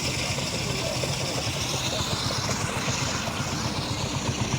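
A vehicle engine running steadily, a low, even rumble with a swishing sweep in the middle.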